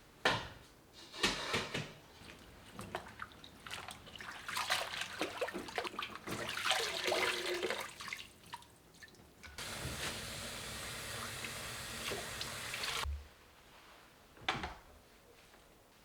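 Irregular clatter of things being handled, then water running steadily from a tap for about three seconds before it is shut off suddenly, followed by a single click.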